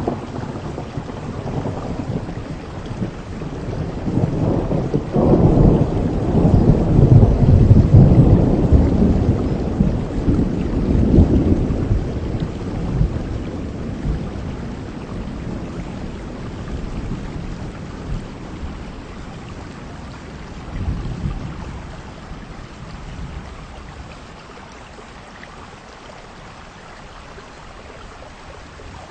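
Long roll of thunder over steady heavy rain: it breaks in suddenly at the start, swells to its loudest about five to eleven seconds in, and rumbles away over the next dozen seconds, with a smaller clap about twenty seconds in. The rain goes on steadily underneath.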